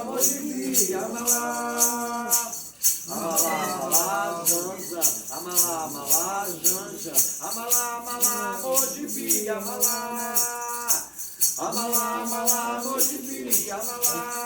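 Voices singing a Candomblé cantiga for Xangô in sustained phrases, over a shaken rattle that keeps a steady, quick beat.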